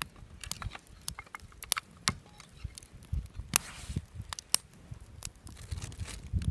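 Wood fire crackling, with frequent irregular sharp pops from the burning firewood.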